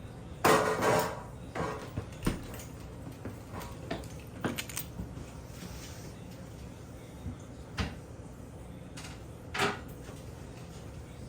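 Intermittent clattering knocks and scrapes of a bathroom exhaust fan's metal housing being handled. The loudest is a rattling scrape about half a second in, followed by scattered clicks and knocks.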